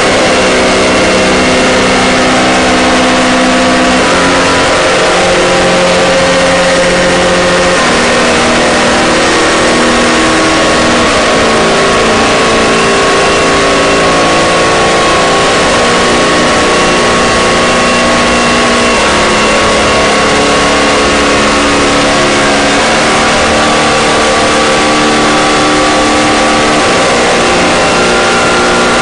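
Drone and harsh-noise music: a loud, dense wall of distorted noise under layered sustained drone tones that step to new pitches every few seconds.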